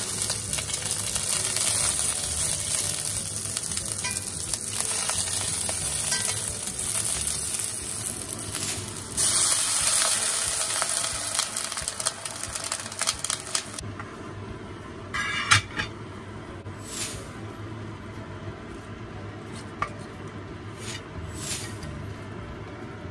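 Food sizzling in a hot pan while it is stirred, growing louder for a few seconds before the sizzle dies away a little past halfway. Several light clinks of a utensil against the pan follow.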